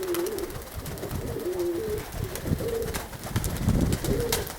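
Domestic pigeons cooing, several wavering calls in a row, over gusts of wind rumbling on the microphone.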